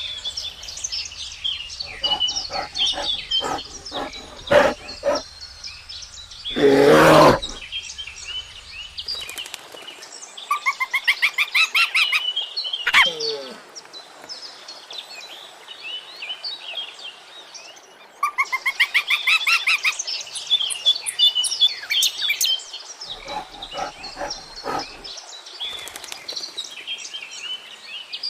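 Birds chirping and calling, with runs of rapid repeated chirps, and a short loud animal call about seven seconds in.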